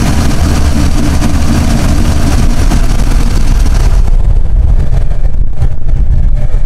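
A 1973 Chevrolet Nova's 383 small-block V8, a 350 stroked to 383, running with a loud, steady low rumble. About four seconds in the sound turns duller as the higher part falls away, while the rumble stays as strong.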